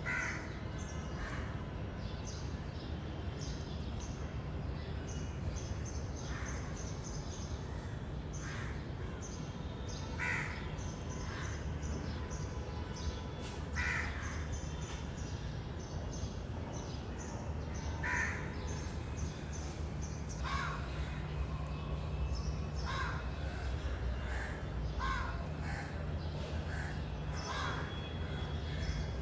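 Birds giving short, harsh calls, repeated irregularly every second or two, over a steady low rumble.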